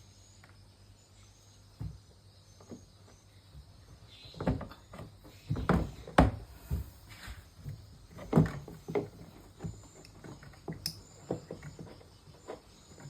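Irregular knocks, clunks and scrapes of parts being handled and fitted into a twin-tub washing machine during a gearbox replacement, busiest from about four to ten seconds in.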